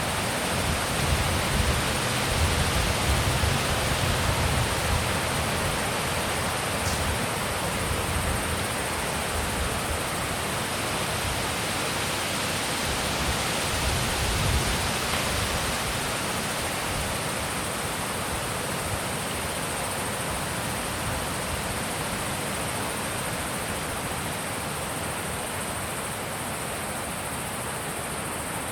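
Wind rushing steadily, with low buffeting gusts on the microphone during the first several seconds and briefly again about halfway; the wind eases slightly toward the end.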